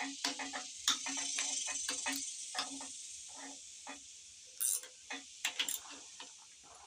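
Ratchet wrench clicking in quick runs, several clicks a second, then sparser after about three seconds. It is backing off the rocker shaft bolts on a Dodge 360 V8 a little at a time, so as not to bend the shaft.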